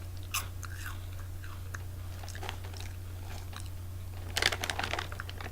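Someone chewing crunchy baked green pea crisps, with scattered crackles and a denser run of crunches near the end.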